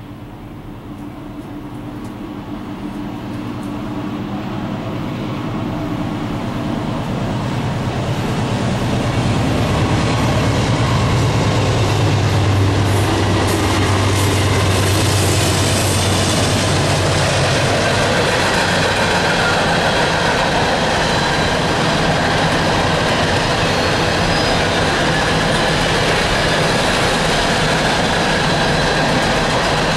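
An empty coal train's lead diesel locomotives, a CN GE C44-9W and ES44DC, grow steadily louder as they approach, with a deep engine drone strongest in the middle. After that comes the steady rumble and clatter of empty coal cars rolling past on the rails.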